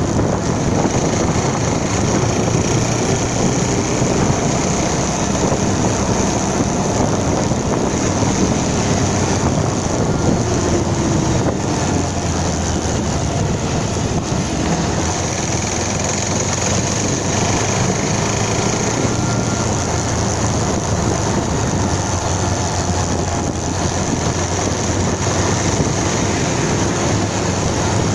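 Motorcycle riding along, its engine running steadily under an even rush of noise, with no marked revving or stops.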